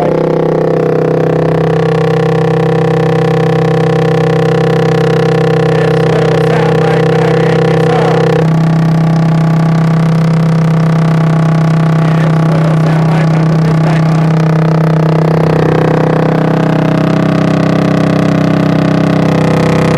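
Moped engine running steadily and loudly through a homemade tin can muffler on its exhaust. Its note shifts abruptly about eight seconds in, then holds steady again.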